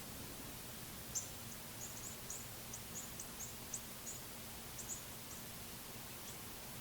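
Small songbird giving a quick, irregular series of short, high chip notes, starting about a second in and trailing off after about five seconds.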